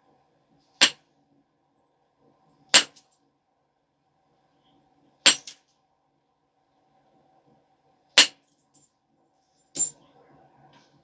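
Flintknapping on a stone biface: five sharp, separate knapping strikes a couple of seconds apart, each knocking a flake off the edge as the biface is refined. Two of the strikes are followed by a small, softer tick.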